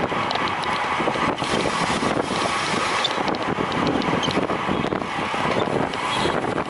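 Steady wind rushing over the camera microphone while moving at race speed, with faint small ticks on top.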